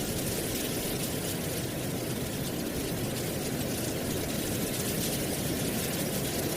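Steady wind blowing through dry autumn leaves, a constant rustling hiss over a low rumble.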